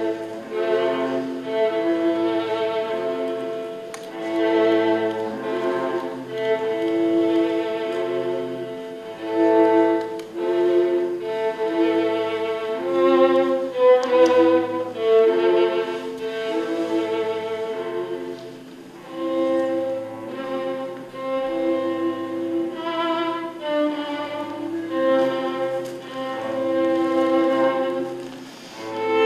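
Music for bowed strings, a violin with a cello beneath it, playing a line of long held notes.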